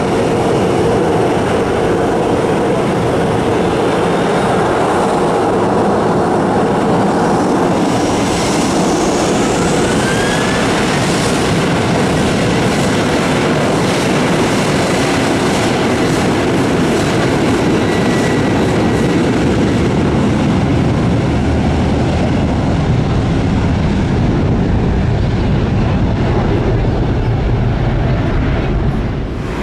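Jet aircraft engines running at high power, a loud steady roar of jet blast with a faint rising whine about eight to ten seconds in. It drops off suddenly at the very end.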